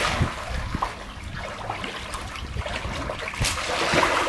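Swimming-pool water sloshing and splashing, with small splashes and drips throughout.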